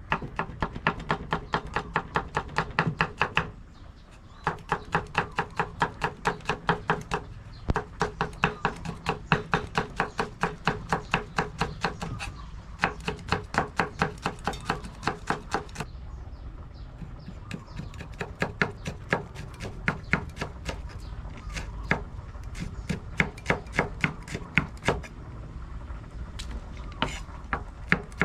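A knife chopping into green papaya in quick, steady strokes, about four or five a second, in runs broken by brief pauses.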